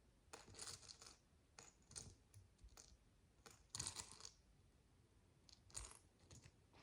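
Faint clicks and rustling of micro bricks being handled and pressed together, in several short clusters.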